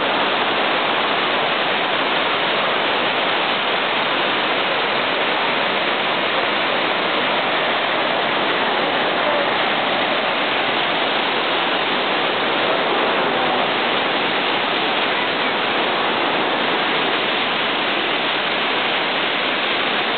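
Waterfall rushing: a steady, loud roar of falling water that does not change.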